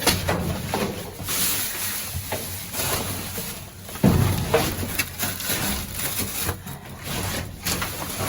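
Plastic trash bags rustling and crinkling as someone rummages through a dumpster, with a sharp knock about four seconds in.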